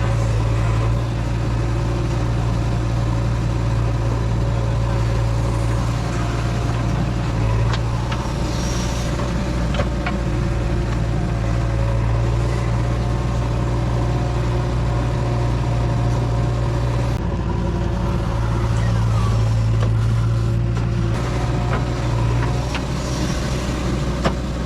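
Heavy diesel engine running steadily with a deep hum; its note shifts slightly about two-thirds of the way in and again a few seconds later.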